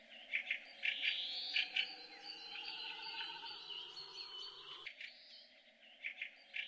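Birds chirping and singing among trees, many short calls and trills. About five seconds in the sound cuts off abruptly for about a second, then the birdsong returns.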